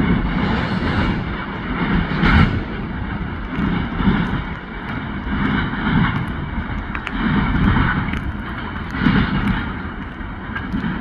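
Freight train cars rolling past: a loud, continuous rumble that swells regularly, about every one to two seconds.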